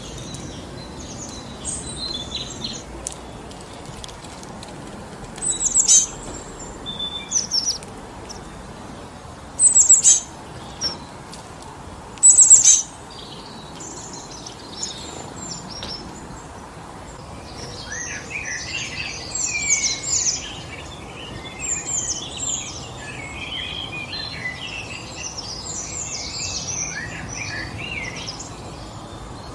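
Small birds calling over a steady hiss of wind in the trees: a few loud, sharp chirps sweeping downward about six, ten and twelve seconds in, then a busy stretch of many overlapping chirps from about eighteen seconds on.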